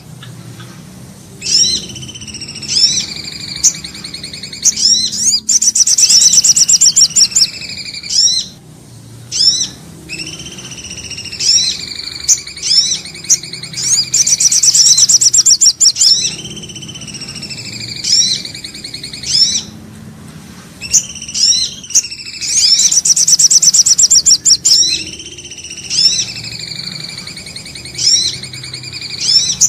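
Bird-lure recording of small songbird calls, the common iora (cipoh) and sogok ontong named for this lure: clear whistled notes gliding in pitch, broken roughly every eight to nine seconds by a loud, fast, high trill, over a faint low hum.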